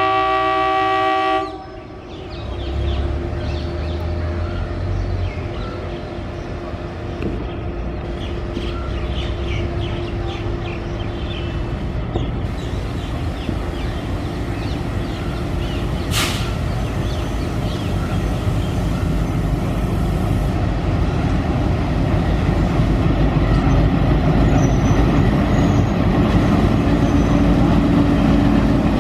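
ALCO WDM3A diesel locomotive's horn, a steady chord that cuts off about a second and a half in. Then the train runs past with a continuous rumble and clatter that grows louder toward the end.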